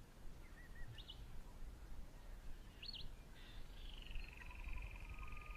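Faint wild bird calls: a few short high chirps, then a long trilling note that starts about three and a half seconds in and falls slightly in pitch, over a low background rumble.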